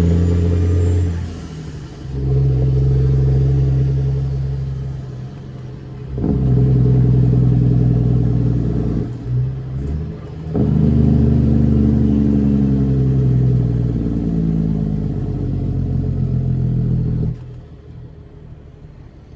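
Cat C13 diesel in a straight-piped Kenworth W900B dump truck pulling through the gears: engine pitch climbs, breaks off and drops at each shift, about four times. It falls back to a much quieter running near the end.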